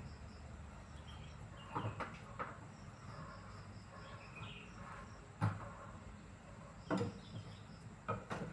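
A handful of sharp knocks and clatters at irregular intervals, a second or more apart, over a low steady hum, with faint high insect chirping behind.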